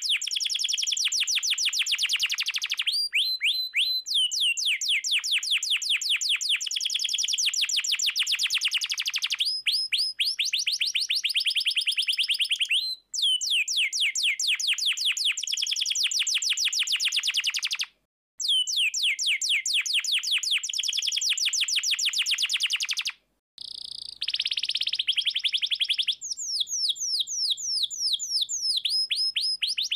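Domestic canary singing in full song: long, fast rolls of rapidly repeated high chirping notes. The song is broken by three brief silences, where the roll stops and then starts again.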